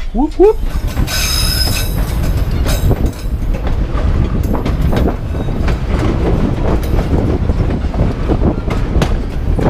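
Narrow-gauge passenger train running on its rails: a steady low rumble with irregular clacks from the wheels over the track. A short rising squeal comes near the start, then a high metal-on-metal wheel squeal for about a second.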